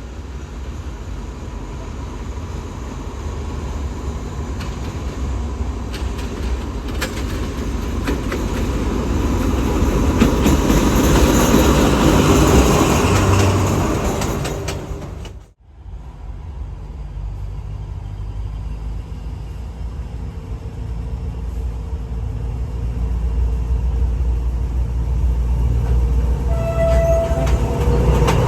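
Diesel train running through the station, its rumble and rail noise growing to a peak about halfway, then breaking off suddenly. A low diesel engine rumble follows and slowly builds.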